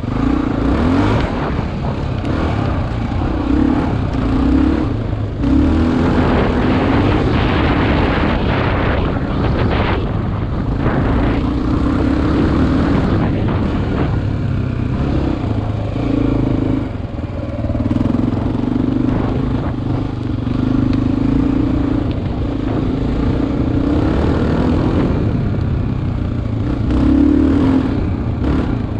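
Single-cylinder dual-sport motorcycle engine running under way off-road, its pitch rising and falling as the throttle changes. It is heard close up from a helmet-mounted camera, over a constant rush of noise.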